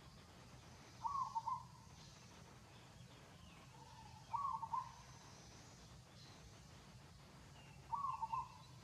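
A bird calling: a short phrase of a few quick notes, repeated three times about three and a half seconds apart, with faint higher chirps of other birds and a steady low hum between the calls.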